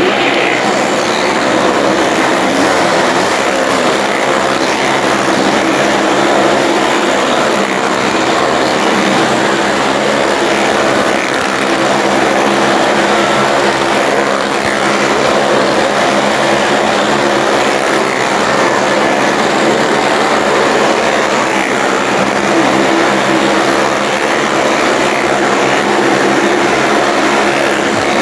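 Motorcycle engines running hard and steady as the riders circle the wooden wall of a well-of-death drum.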